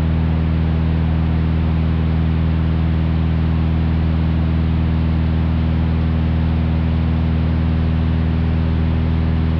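Steady cruise drone of a 1956 Cessna 172's six-cylinder Continental O-300 engine and propeller, heard from the cabin: an even hum of several steady low tones under a constant hiss. It holds unchanged at cruise power in smooth air.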